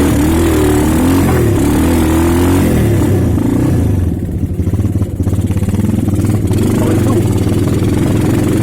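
Motorcycle engine running while riding, a steady low drone with a short easing-off about halfway through.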